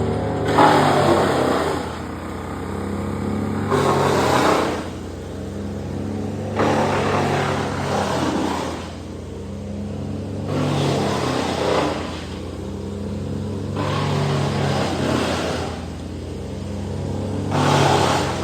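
An engine running steadily, with louder surges every three to four seconds.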